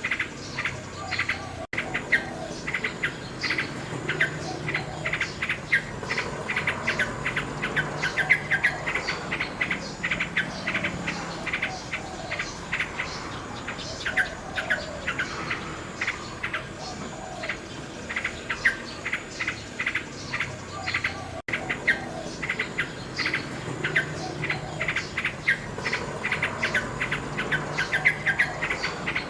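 Nightingale song: fast runs of short repeated chirps and trills, dense and continuous. The sound cuts out for an instant twice, about two seconds in and about two-thirds of the way through.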